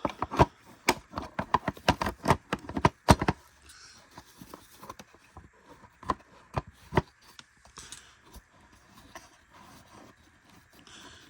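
Sharp plastic clicks and knocks as the belt and brush roll are fitted into the base of a Bissell CleanView upright vacuum. They come as a quick run of clacks for about three seconds, then a few scattered ones, then faint handling.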